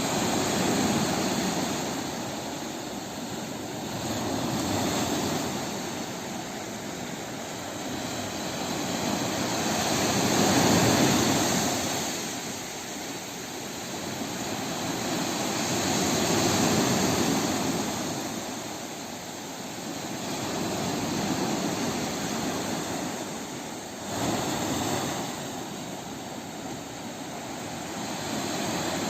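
Sea waves washing in and drawing back, the surf swelling and fading about every five to six seconds.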